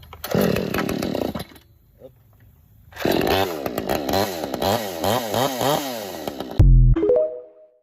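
Vevor 20-inch 52cc two-stroke chainsaw firing and running for about a second just after being started on choke, then after a short pause running again with the throttle blipped over and over, its pitch rising and falling two or three times a second. A sudden loud low thump near the end, then the sound cuts off.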